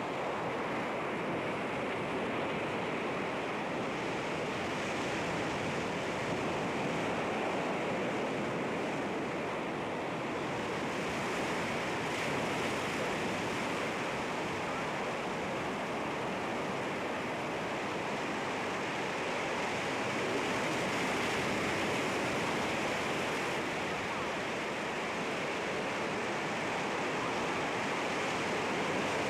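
Sea waves washing against rocks, a continuous surf with slow, gentle swells in level.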